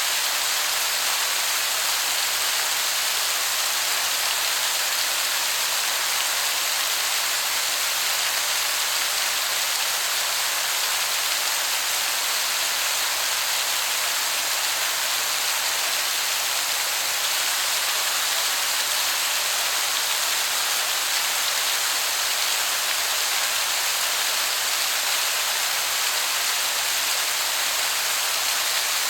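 Waterfall: falling water making a steady, even hiss, strongest in the high end, that sounds like heavy rain.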